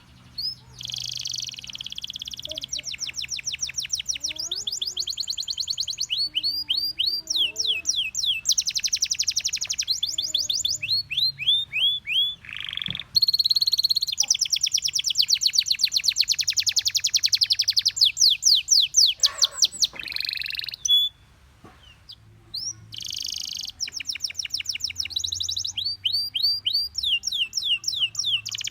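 Gloster canary singing: long rolling trills of very fast repeated notes alternating with series of quick rising whistled notes, with a brief pause about three-quarters of the way through.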